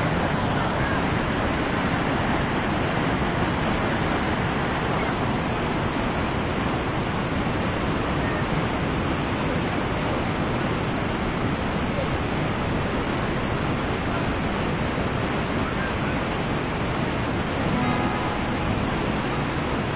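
Steady rush of a waterfall, close enough that its spray is felt.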